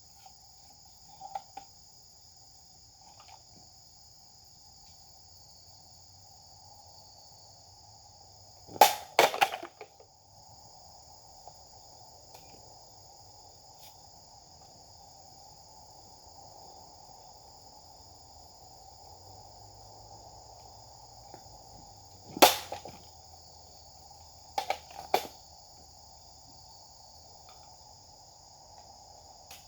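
Japanese sword (katana) cuts: a quick cluster of sharp slicing strikes about nine seconds in, a single one around 22 seconds and two more near 25 seconds. Under them runs a steady chorus of insects.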